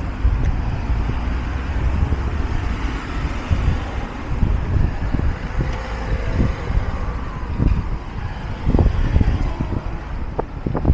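Street ambience of road traffic running past, with wind buffeting the microphone in irregular low thumps.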